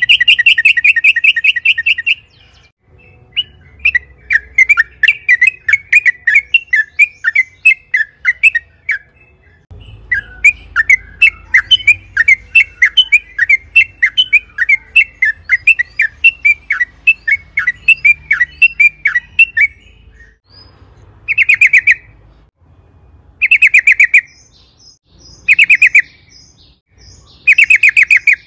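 Yellow-vented bulbul (trucukan) singing in loud, rapid, bubbling chattering runs. Near the end it gives four short trills about two seconds apart.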